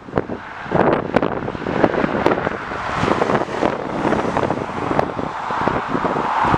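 Jet airliner's engine noise, growing louder in the second half, with wind buffeting the microphone in repeated gusty thumps.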